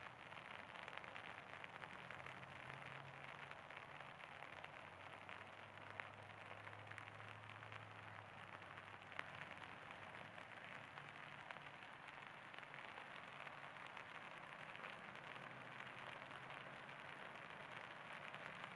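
Faint steady rain falling, a fine patter of many small drop ticks, with two sharper drop ticks about six and nine seconds in.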